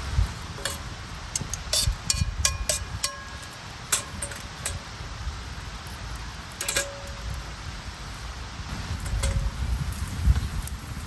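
Scattered clinks and taps of metal cookware and utensils, a few ringing briefly, with a cluster of them about two to three seconds in, over a low steady rumble.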